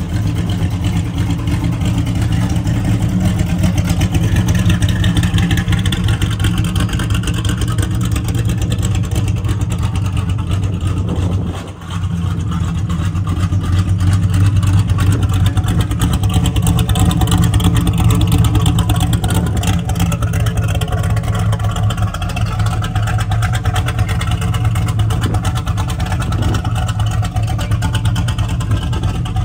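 Small-block Chevrolet 350 V8 running at a steady idle, dipping briefly about twelve seconds in.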